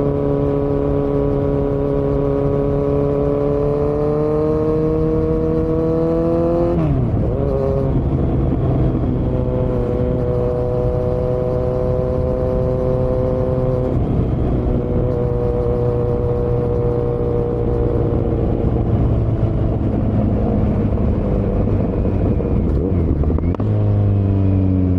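Kawasaki Z900's inline-four engine running through an open Yoshimura muffler and Delkevic headers with no dB killer. The engine note climbs a little, drops sharply about seven seconds in, holds steady, then sinks slowly. Near the end it jumps back up.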